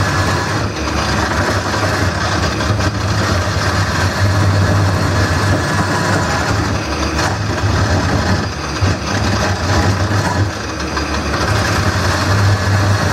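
Wood lathe running with a steady motor hum while a gouge cuts into the spinning wooden bowl blank, the scraping of the cut swelling and easing as the tool is worked.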